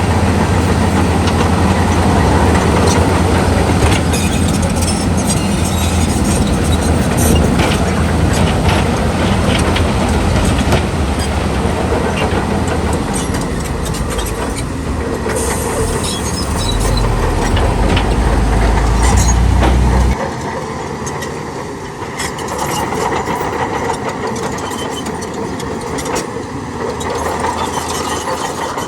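Heavy diesel engine of earthmoving machinery running, with scattered clanks and rattles. The strong low engine note drops off sharply about twenty seconds in, leaving a lighter engine sound.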